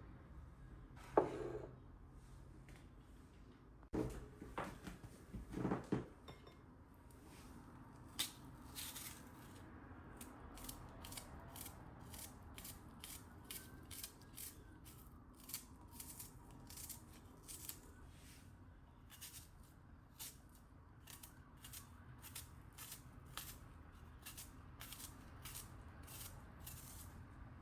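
Kitchen food-preparation sounds: a few knocks in the first few seconds, then a long run of light, sharp clicks about two a second, like snipping or cutting.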